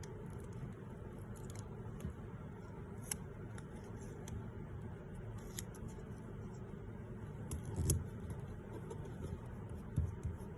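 Quiet handling sounds of journal-making: scattered small clicks and ticks of paper and craft tools, with a soft thump about 8 seconds in and another about 10 seconds in.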